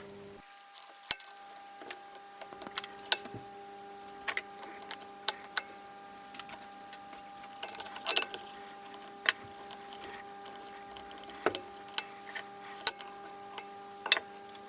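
Metal tools and engine parts clinking and clicking against each other at irregular intervals as they are handled during disassembly, over a faint steady hum.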